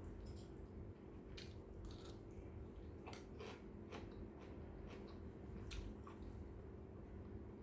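A person eating fried rice close to the microphone: soft chewing with a few scattered short mouth and utensil clicks, over a steady low hum.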